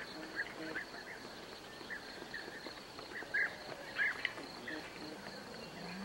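Chickens pecking grain off concrete, with scattered short soft clucks and chirps, the loudest about three and a half and four seconds in, over a steady high-pitched insect trill in the background.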